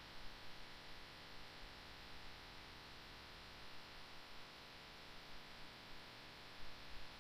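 Faint steady hiss with a low hum, near silence, broken only by a few small low bumps.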